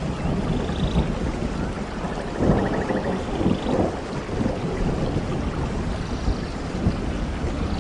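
Steady heavy rain with a low, rolling rumble of thunder that swells a few seconds in.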